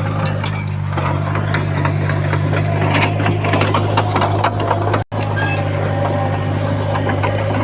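Heavy earthmoving machinery's diesel engine running steadily, with scattered clanks and rattles of metal and stone. The sound cuts out for a split second about five seconds in.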